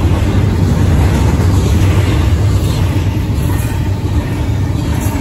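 Double-stack intermodal train's well cars rolling past: a steady loud rumble of wheels on rail. The crossing bells, a Type 2 electronic bell and a mechanical bell, ring through it.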